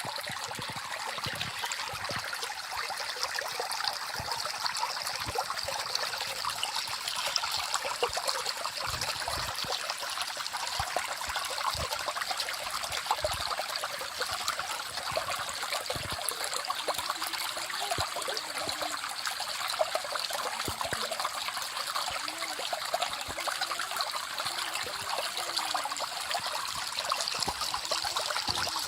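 Small forest stream running, water trickling and splashing over stones in a steady, even flow.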